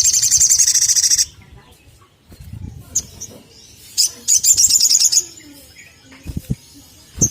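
Sunbird calling: two fast, high chittering trills about three seconds apart, with single sharp chips between them. A few low thumps come near the end.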